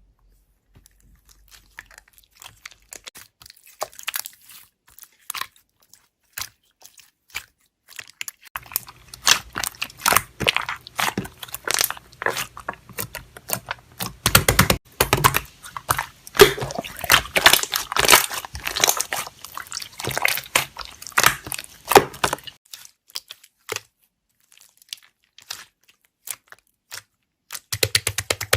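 Slime being pressed and poked by hand, giving many small crackling clicks and pops: scattered at first, then a dense run through the middle, thinning out again with a short burst near the end.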